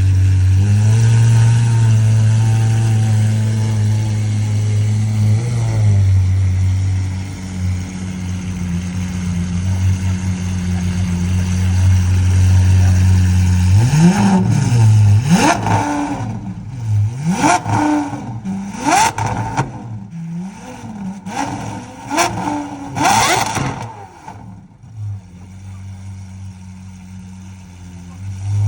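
Sports car engine idling with a steady deep note. About halfway through it is revved repeatedly in quick blips, each one rising and falling in pitch. It then drops back to a quieter idle.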